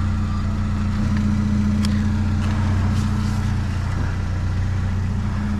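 A vehicle engine idling steadily, with a low even hum and a couple of faint clicks.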